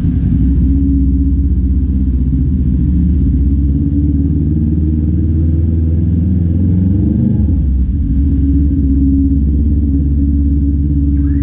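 Kawasaki Z400's parallel-twin engine running loud and steady under way. Its pitch climbs about six seconds in and drops sharply about a second later.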